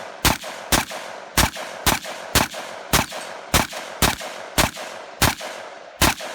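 Arsenal SLR-107F AKM-pattern rifle firing 7.62x39 rounds in steady semi-automatic rapid fire, about two shots a second, about eleven shots in all. These are the last rounds of a 30-round magazine, emptied in saturation fire.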